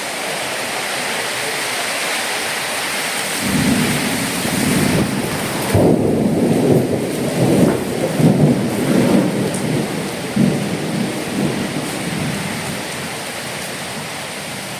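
Heavy rain hissing steadily; about three seconds in, a long rolling rumble of thunder starts, surging and fading over several seconds, while the rain hiss thins.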